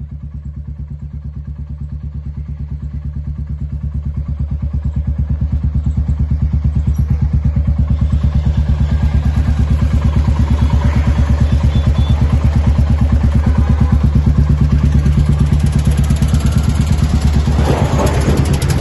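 Royal Enfield Classic 350 single-cylinder engine idling through an aftermarket Gursewak straight-shot exhaust with the catalytic converter removed, giving a steady, deep, rhythmic thump. It grows louder over the first few seconds, then holds steady, with a brief rougher moment near the end.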